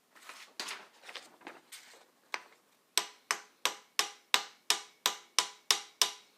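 Some handling and rustling, then from about halfway in ten sharp metallic taps at an even pace of about three a second, each ringing briefly.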